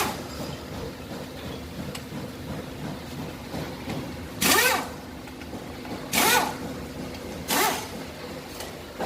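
Three short runs of a small motor, each about half a second long, with a pitch that rises and falls each time, over a steady low hum.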